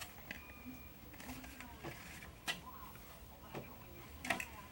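Small plastic kit pieces handled on a table: scattered light clicks and taps, the sharpest about two and a half seconds in and near the end.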